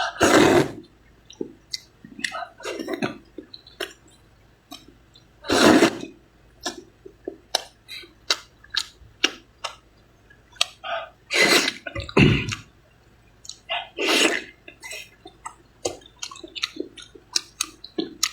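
A person eating glass noodles close to the microphone. There are wet smacking and chewing clicks throughout, and four loud slurps as mouthfuls of noodles are sucked in: near the start, about six seconds in, around twelve seconds in and about fourteen seconds in.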